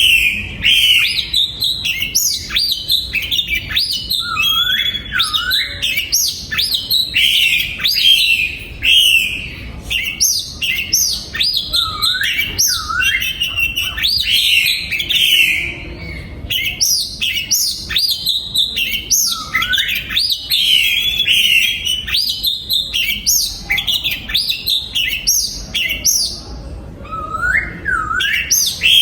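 Oriental magpie-robin singing: a long, varied run of clear whistled phrases, with sweeping notes that swoop down and back up, broken only by a couple of short pauses.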